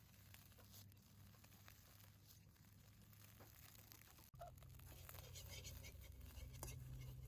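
Faint scattered crackles and ticks. About four seconds in the sound cuts out for an instant and a low hum comes up.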